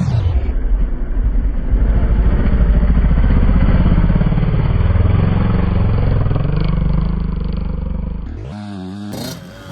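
Dirt bike engine running loud and close, its revs rising and falling, then dropping away sharply near the end.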